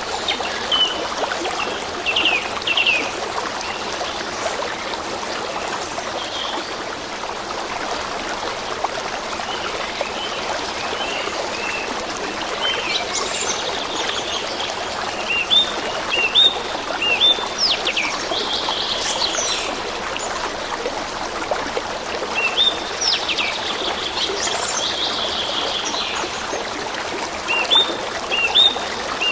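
Stream trickling steadily, with small songbirds chirping and calling over it in scattered flurries.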